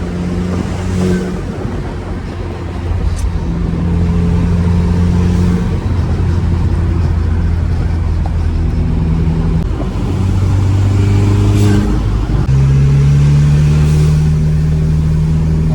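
Car engine running under way, its note stepping up and down several times as it is revved and the load changes, then settling to a steadier tone near the end.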